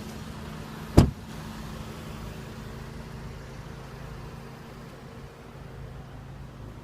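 A 2015 Audi A3 idling steadily, with a single sharp clunk about a second in.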